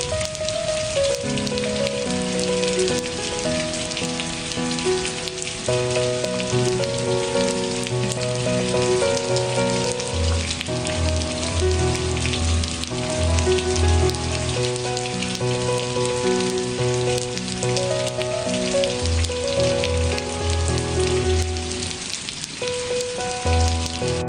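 Steady rain falling, mixed with soft relaxation music of held notes over a slow bass line that changes every second or two.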